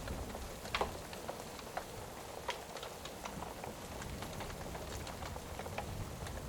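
Rain falling steadily, with scattered sharp crackles and pops from a wood fire.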